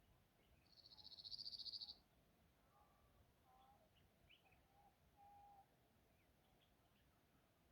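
Faint small birds calling: a rapid, high trill that grows louder for about a second near the start, followed by scattered short chirps and a brief whistled note.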